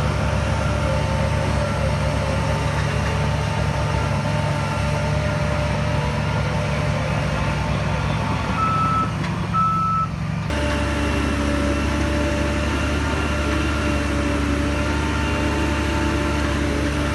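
Heavy diesel engine of earth-moving machinery running steadily, with two short high beeps of a reversing alarm about halfway through. Shortly after the beeps the engine sound changes abruptly.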